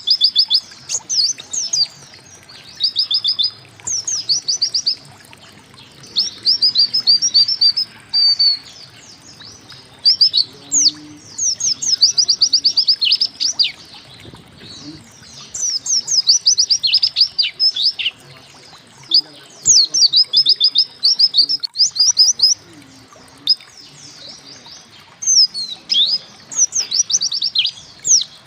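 Pleci (white-eye) singing in repeated bursts of quick, high, downward-sweeping chirps, each burst a second or two long with short gaps between: the rapid 'tembakan' phrases that bird keepers play as a masteran.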